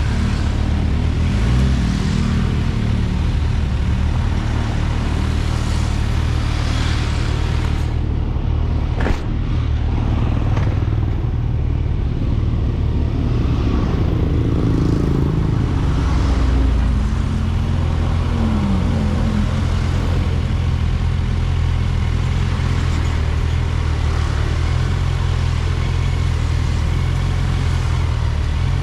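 Kawasaki Ninja 1000SX inline-four engine running steadily under way, with a few brief rises and falls in pitch and a single sharp click about nine seconds in.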